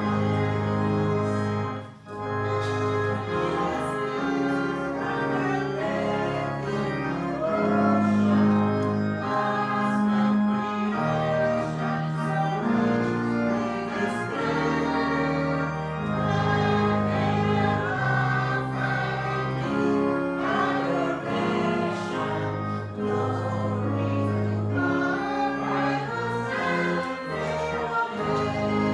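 Choral music: a choir singing with instrumental accompaniment, held chords over a bass line that changes every second or two.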